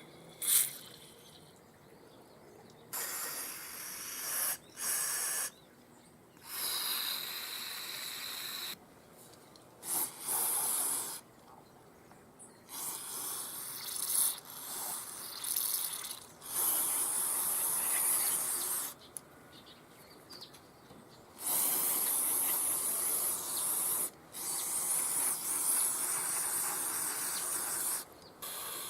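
Repeated hissing bursts of a pressurised jet, each about half a second to three seconds long, used to clean the parts of a disassembled carburetor.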